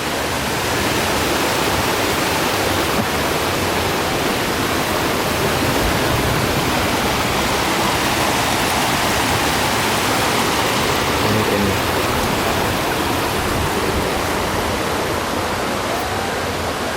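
A waterfall's water rushing steadily, a dense even hiss with no breaks.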